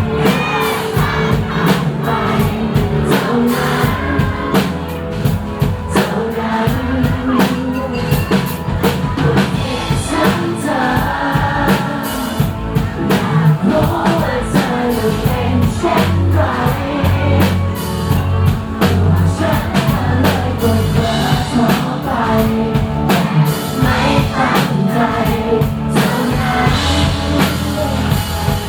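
A live rock band playing a ballad-paced song with sung lead vocals over drum kit, bass, guitar and synthesizer.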